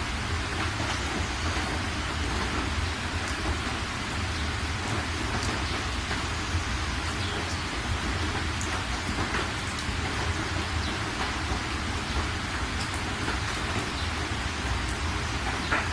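Steady heavy rain falling, with scattered individual drops ticking over a constant low rumble.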